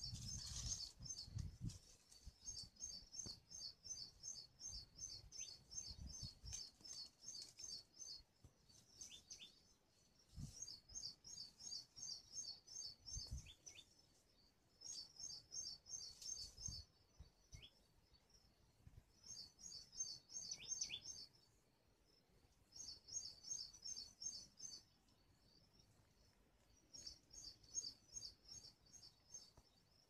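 Faint, rapid high chirps, about four a second, repeated in bouts of a few seconds with short pauses between, from a small bird. A few brief falling whistles come between the bouts, and a few low thumps are heard.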